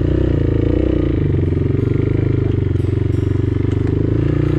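CrossX 250SE dirt bike engine running at low, steady road speed. The revs waver up and down briefly in the first second, then hold steady.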